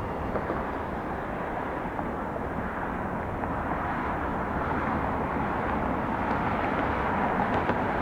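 Jet engines of a Boeing 767-400 airliner on departure: a steady rumbling roar that slowly grows louder.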